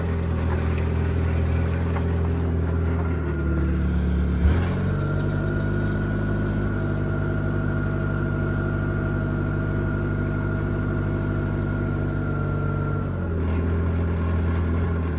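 Forklift engine running steadily. About four and a half seconds in, its note shifts and a steady whine joins it, as under hydraulic lifting load, until the engine settles back to its earlier note near the end.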